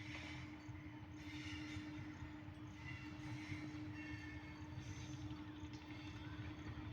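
Indian Railways train running: a steady low rumble with a constant hum, and faint higher tones that come and go.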